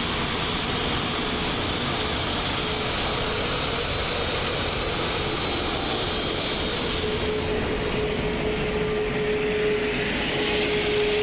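Steady rushing noise inside an Airbus A380 cockpit as the jet taxis on its engines, with a steady hum that grows stronger in the second half.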